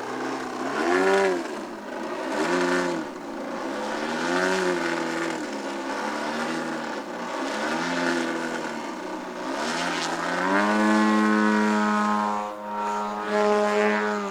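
A 35% scale Edge 540 RC aerobatic plane's motor and propeller, its note rising and falling in pitch in repeated swells every couple of seconds as it manoeuvres. About ten seconds in it climbs to a higher note and holds there steadily.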